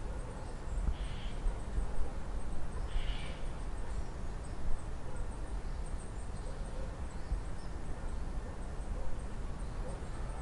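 Outdoor nature ambience: birds chirping faintly over a steady low rumble, with two short, clearer calls about one and three seconds in.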